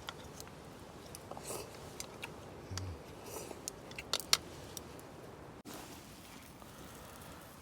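Scattered light clicks and small knocks with soft rustling, and one sharper click about four seconds in.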